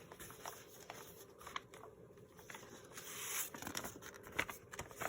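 Faint rustling and tapping of paper sheets and book pages being handled and laid onto a pile, with a brief swish of paper sliding about three seconds in.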